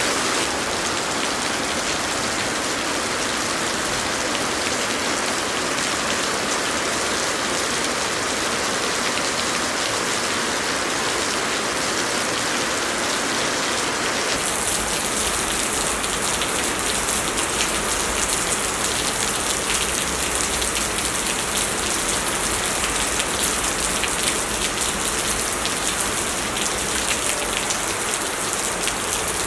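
Heavy rain pouring steadily, a dense hiss of drops on surfaces. About halfway through the sound shifts to a sharper, more distinct patter of drops with a low rumble underneath.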